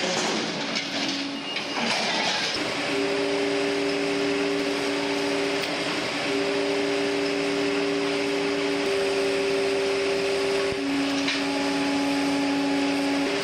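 Heavy industrial machinery running: steady mechanical noise with a low hum that shifts pitch every few seconds, and a single sharp knock near the end.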